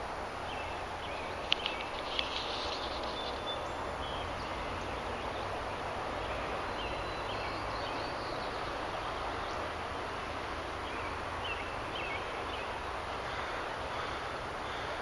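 Outdoor ambience: a steady rushing noise with scattered short, high chirps and a few sharp clicks about a second and a half in.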